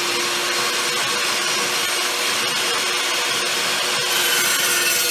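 Evolution EVO380 cold saw running and cutting steel stock, a steady motor and blade noise that grows louder and harsher about four seconds in.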